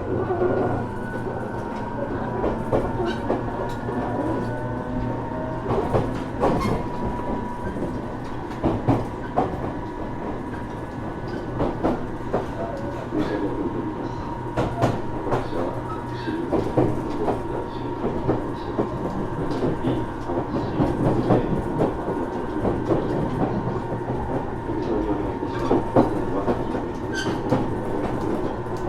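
Running noise inside a JR Kyushu 415 series 1500-subseries motor car at speed. Wheels knock over rail joints and a steady high whine runs underneath. The recordist lists this car as one with an abnormal noise.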